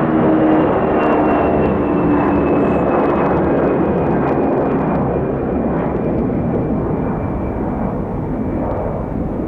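Airbus A320-200 jet airliner passing close on landing approach, its engines giving a steady rush with a faint whine that slowly drops in pitch as the noise begins to fade.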